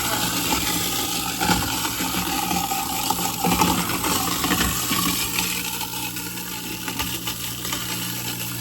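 Garbage disposal running, grinding a load of ice cubes in water: a steady motor hum under a dense rattling clatter of ice, which thins out about five seconds in as the ice is ground down.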